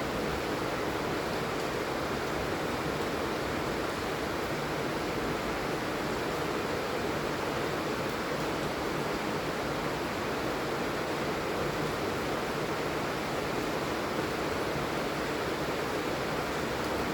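Steady, heavy rain falling, an even continuous hiss and patter.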